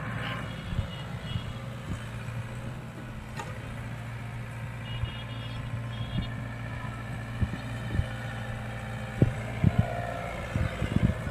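Engine of clay-processing machinery running steadily at a constant speed. Scattered sharp knocks become louder and more frequent in the last couple of seconds.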